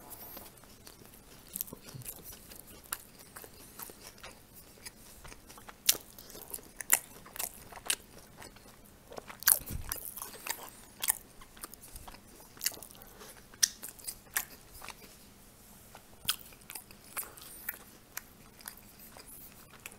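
Close-up chewing and biting of pan-fried pelmeni with crisped skins: irregular sharp crunches and mouth clicks.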